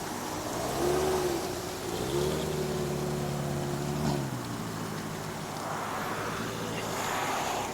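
Traffic passing on the road: a vehicle's engine hum with tyre noise swelling and fading as cars go by. The engine tone cuts off about four seconds in.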